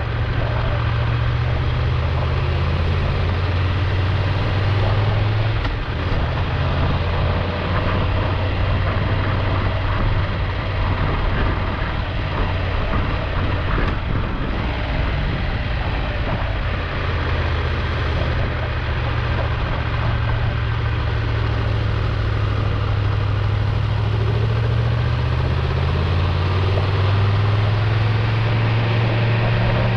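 Triumph Tiger 1200 Rally Explorer's three-cylinder engine running under way, its low note stepping in pitch a few times as the revs change, over a steady rush of road and wind noise.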